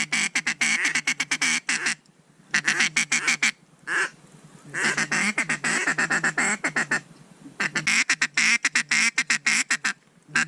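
Duck quacking in four rapid runs of many quick quacks each, with short pauses between the runs.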